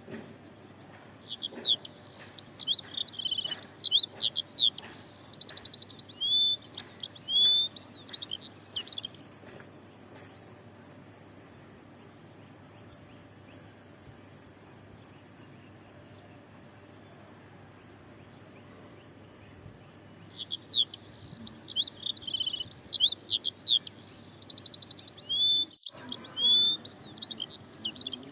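A songbird singing two long bouts of quick, varied high whistles, slurred notes and short trills, each about eight seconds long and separated by about eleven seconds of quiet background. The two bouts run through the same sequence of notes.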